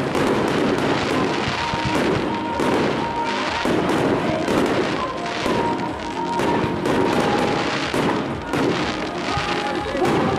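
Aerial firework shells bursting and crackling in quick succession, many sharp bangs through the whole stretch, with music playing underneath.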